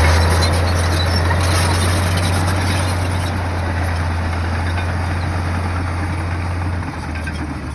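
Heavy earthmoving machine's diesel engine running with a steady low drone and mechanical noise, the drone dropping slightly near the end.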